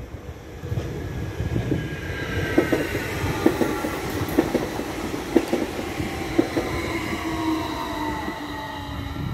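SBB Stadler FLIRT electric multiple unit passing and pulling away. Its motor whine falls slowly in pitch over a low rumble, and the wheels click over the rail joints about once a second.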